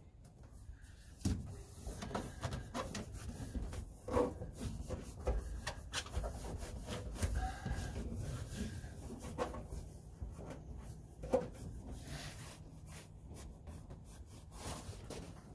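Irregular rubbing, crinkling and light knocks of sound deadener sheets being handled and pressed down onto a truck's cab floor.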